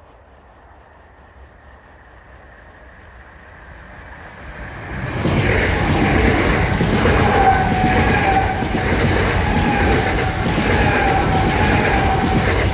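Two coupled Class 387 electric multiple units passing close at speed. The noise builds from a distant rumble and becomes a loud, steady rush about five seconds in, with the wheels clattering over the rail joints in an even rhythm and a faint tone running through it.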